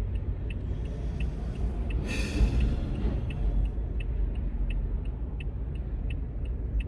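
Car cabin noise while driving: a steady low road and engine rumble with a regular light ticking about three times a second, and a brief hissing rush about two seconds in.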